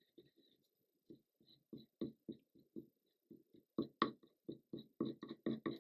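Hands rubbing and pressing down a freshly glued paper tag in quick repeated strokes, about four a second, growing louder after the first couple of seconds.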